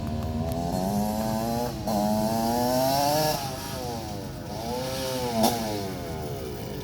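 Off-road vehicle engine revving, its pitch rising and falling several times.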